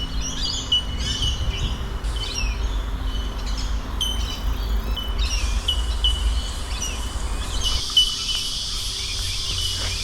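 Wild birds calling in forest: repeated short, sharp calls and quick sweeping notes. About eight seconds in, the low rumble under them drops away and a steady high hiss joins.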